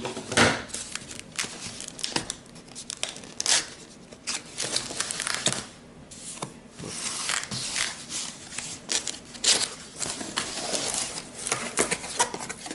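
A cardboard box being cut and torn open by hand: irregular scratching, ripping and crinkling of cardboard, with a few sharp clicks and handling knocks.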